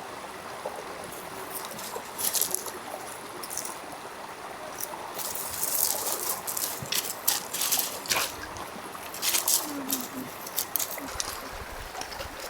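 Steady trickle of flowing water, with a scatter of short, sharp clicks and rattles on top.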